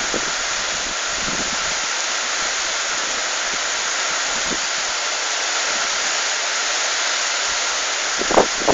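Heavy rain pouring down in a steady hiss, with a few short louder splashes or knocks near the end.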